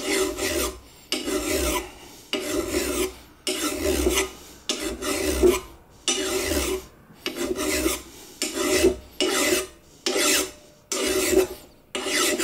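Hand file rasping across the sheared-off end of a rusty exhaust manifold stud, filing it flat in steady one-way strokes, about one a second.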